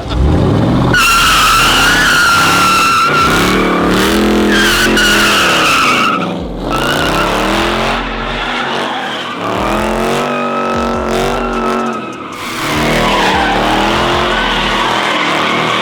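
A car doing donuts: its engine revving hard, rising and falling in pitch, while the tires squeal in a long, continuous screech that eases off briefly twice.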